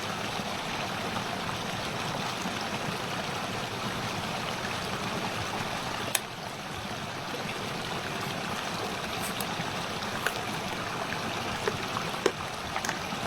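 A steady, even rushing noise with a few sharp clicks, one about six seconds in and a few more near the end.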